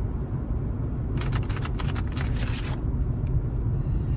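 A steady low rumble, with a burst of rustling and clicking starting about a second in and lasting about a second and a half.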